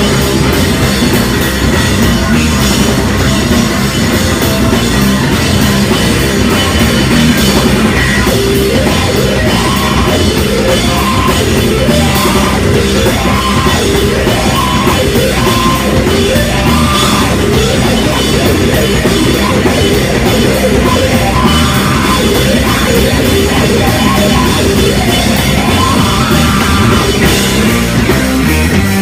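Heavy rock band playing loud live, with a drum kit and amplified instruments driving on without a break.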